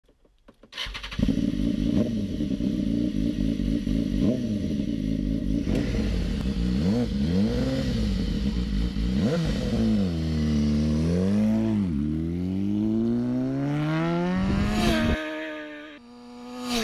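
Motorcycle engine revving, its pitch swinging up and down several times, then climbing steadily for about three seconds before cutting off abruptly near the end.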